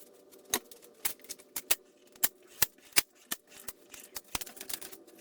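An irregular series of about a dozen sharp clicks, roughly two a second, over a faint steady hum.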